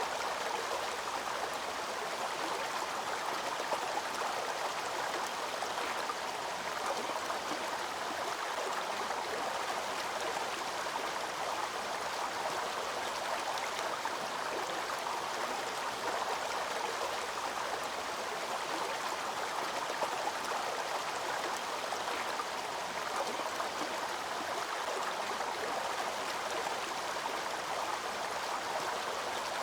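Waterfall: water pouring and splashing in a steady, even rush that never changes.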